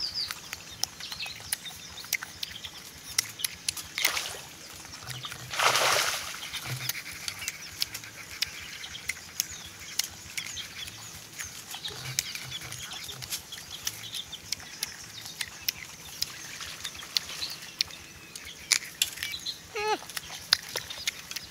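Close-up crunching and chewing of crisp young green mango: many sharp crackling clicks, with two louder crunchy bursts about four and six seconds in. A short gliding call sounds near the end.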